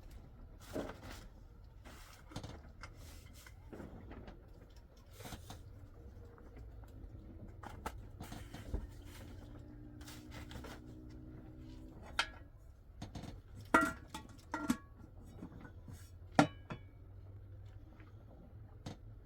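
Scattered knocks and clinks of objects being handled, over a steady low hum, with a few sharper clinks in the second half.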